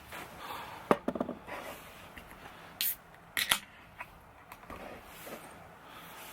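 Scattered small clicks, taps and a couple of short scraping rustles, as of gear being handled.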